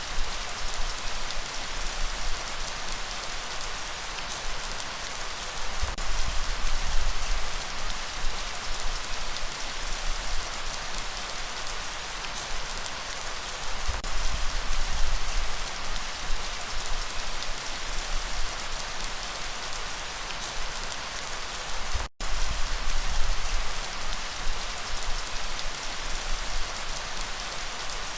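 Steady rain falling, a dense, even patter of drops. It cuts out for a split second about three-quarters of the way through.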